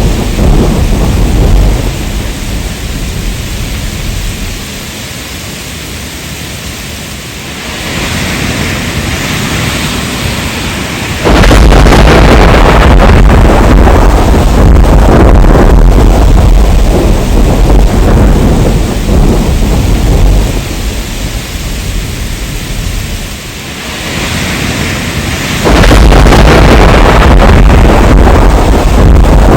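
Heavy rain falling with thunder. Deep rumbling thunder starts abruptly about a third of the way in and runs for several seconds, fades, then starts again loudly near the end.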